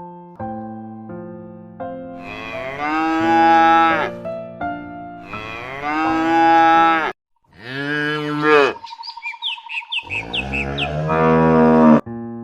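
Cow mooing four times in long, drawn-out calls over a simple piano tune.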